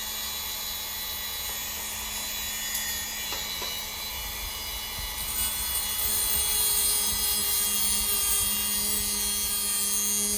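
Power tool cutting through a steel Heli-Coil thread insert, a steady whine that gets louder and brighter about halfway through.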